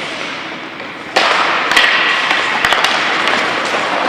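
Ice hockey play on the rink: a steady hiss of skates on ice that gets louder suddenly about a second in, with sharp clacks of sticks and puck scattered through it.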